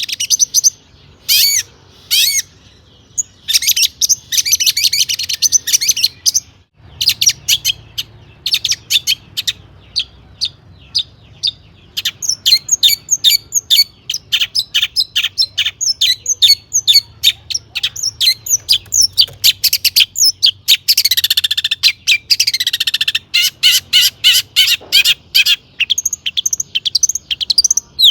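Long-tailed shrike singing a rapid, varied song of sharp chirps and whistles, full of mimicked calls of other birds. The song has short pauses early on, then runs almost without a break, with a burst of falling notes about three-quarters of the way through.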